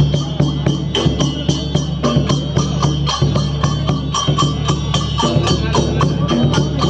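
Folk music for Danda Nacha: drums and jingling percussion keep a fast, steady beat over a held drone.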